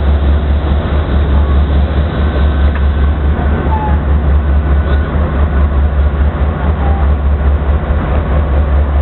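Railway locomotive giving a steady, loud low rumble.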